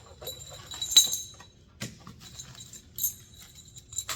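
Small metal parts clinking and jingling as they are handled: a few sharp clinks with a bright ringing after each, the loudest about a second in.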